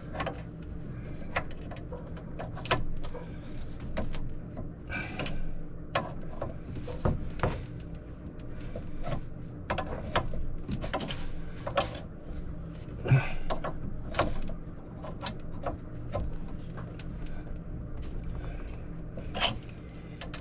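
Scattered clicks, taps and knocks of a wrench and hands working the fittings of a new washer/icemaker supply valve, over a steady low hum.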